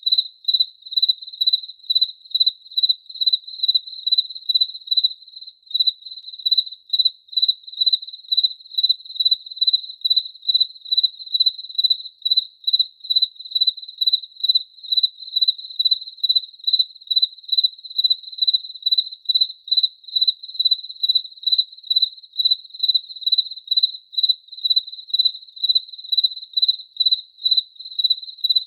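A cricket chirping: a single high, pure-sounding pitch repeated in a fast, even rhythm of regular chirps.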